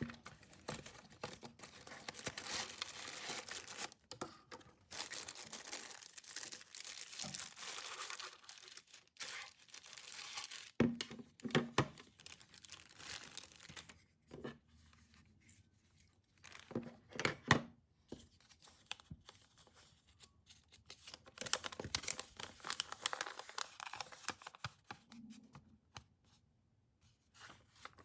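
Quiet rustling, crinkling and tearing of paper or plastic packaging being handled, with a few light knocks in between.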